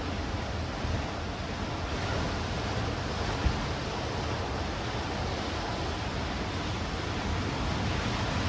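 Sea surf washing steadily over black rocks and stones, with wind rumbling on the microphone. One short knock about three and a half seconds in.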